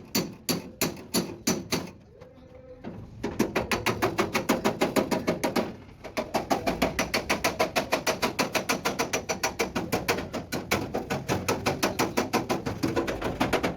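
Rapid, even hammer blows on sheet steel, several a second, as a truck cab body panel is beaten out. There is a short lull about two seconds in and a brief break around six seconds.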